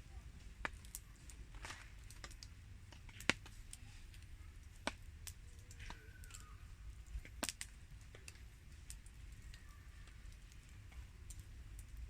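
Campfire crackling in the rain: scattered, irregular sharp ticks and pops over a low steady rumble, with a few louder pops.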